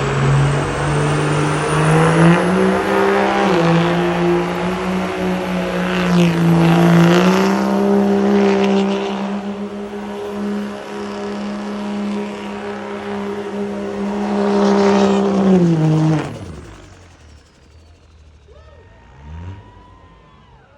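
A truck engine held at high revs for about sixteen seconds, at a steady pitch that steps up slightly a couple of times. Near the end it drops off and winds down quickly.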